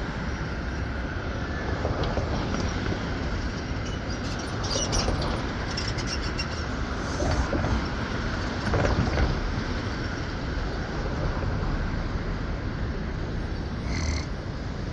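Rapid-transit train car running on the rails, with rattling and clattering from the wheels and car about midway, and a brief high squeal near the end.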